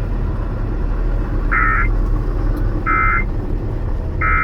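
Three short identical bursts of warbling data tones, evenly spaced about a second and a half apart. This is the end-of-message signal of an Emergency Alert System test, played over the truck's cab radio. A steady low engine and road rumble runs underneath.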